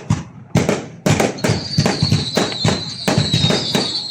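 Fireworks going off in rapid succession: a string of sharp bangs, irregularly spaced, several a second. From about a second and a half in, a steady high whistle runs on beneath the bangs.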